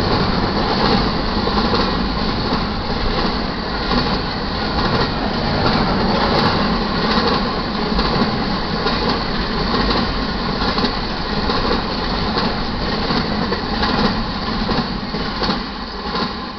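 Double-stack intermodal well cars rolling past at speed, steel wheels clattering and rumbling over the rails. The sound starts to fade near the end as the last car goes by.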